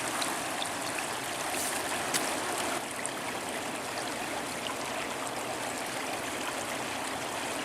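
Stream water running steadily over riffles and logs.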